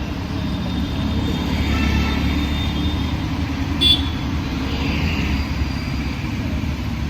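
Busy city street traffic: a steady rumble of passing engines and tyres, with a brief sharp high-pitched beep about four seconds in.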